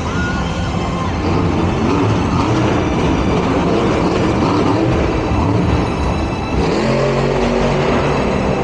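Monster truck's supercharged V8 engine running loud and revving in the arena, with a change in engine pitch about six and a half seconds in.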